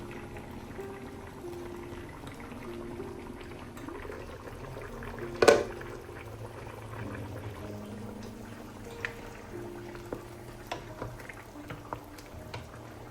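Liquid bubbling in a pot under soft background music, with one loud sharp knock about five and a half seconds in and a few light taps near the end.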